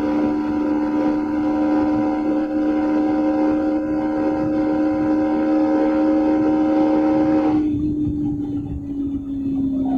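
Yamaha MT-15's single-cylinder engine through its stock exhaust, running at steady revs under way. Near the end the throttle comes off: the upper part of the note drops away and the pitch sags a little.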